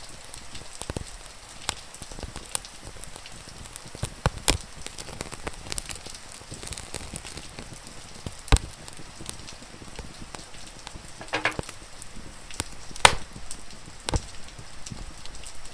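Wood fire crackling, with irregular sharp pops over a steady hiss of rain; two pops, about eight and thirteen seconds in, stand out as the loudest.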